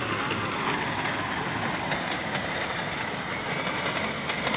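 Small garden joy train running along its narrow track, a steady rumble of wheels on rail heard from aboard the car.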